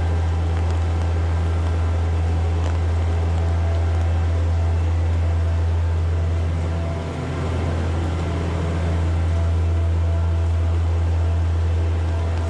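Heavy rain on a city street: an even hiss of rain under a loud, steady low mechanical hum, which dips briefly about seven seconds in.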